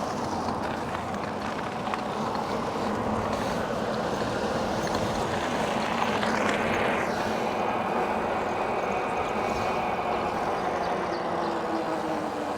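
Steady rushing road and wind noise of an e-bike ride in motion, with faint steady tones underneath and a brief swell of hiss about six seconds in.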